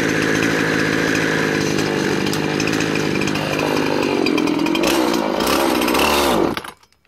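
Gas chainsaw running at high revs while cutting dead mesquite, then its engine pitch drops and it winds down and stops about six and a half seconds in.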